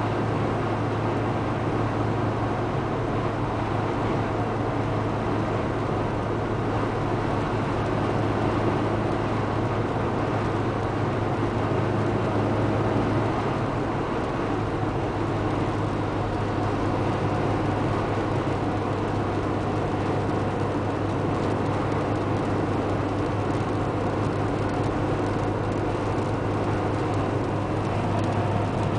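Fiat Tipo 1.4 i.e. four-cylinder petrol engine and road noise at a steady highway cruise of about 90 km/h: a constant, loud drone with a steady low hum. It is noisy enough to suggest a much higher speed, around 120 km/h.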